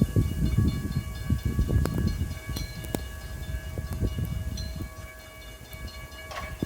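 VIA Rail passenger train running past on the track, a low, uneven rumble of wheels and rail with scattered sharp clicks and faint steady high tones. The rumble eases somewhat near the end.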